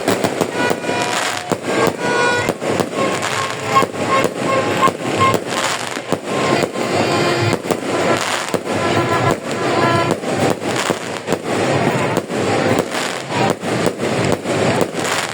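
Many fireworks going off in quick succession: a dense, continuous run of sharp bangs.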